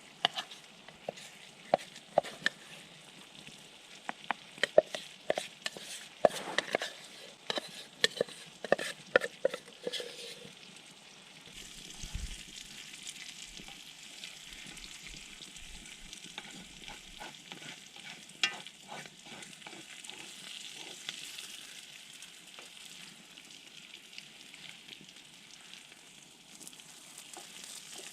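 Food frying in a pan over a campfire: sharp crackling pops for the first ten seconds or so, then a steady sizzle.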